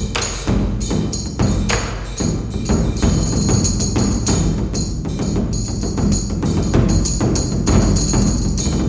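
Percussion trio and synthesizer playing together: a dense, rapid run of percussion strikes over sustained low synthesizer tones.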